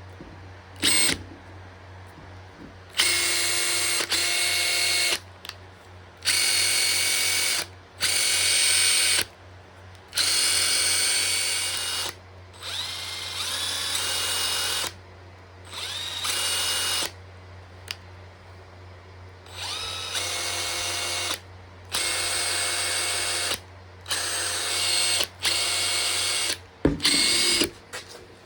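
Makita TP141D cordless 4-mode impact driver running unloaded in repeated trigger pulls: about a dozen bursts of one to two seconds of motor whine with short pauses between. In some pulls the pitch rises as the motor speeds up.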